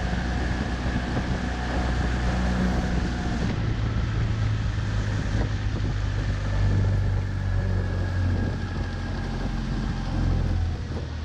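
Small outboard motor on a Gheenoe running at low speed, a steady low hum whose note shifts about three and a half seconds in, with wind on the microphone.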